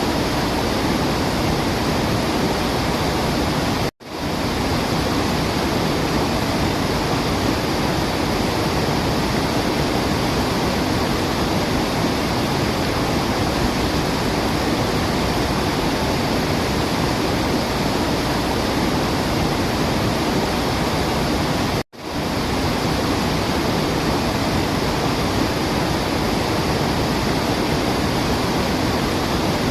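Steady rushing of a waterfall, an even wash of falling water, broken twice by a split-second gap of silence, about 4 and 22 seconds in.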